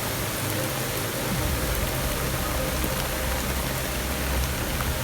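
Steady hiss of heavy hurricane rain and rushing floodwater, with a low rumble strengthening about a second and a half in.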